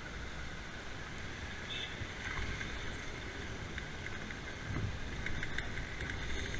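Motorcycle running along a road, its low engine and road noise mixed with wind rumble on the camera's microphone.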